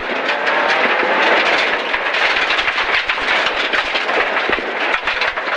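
Inside a rally car at speed on a loose surface: the engine running hard under a constant clatter of stones and gravel hitting the underside and wheel arches.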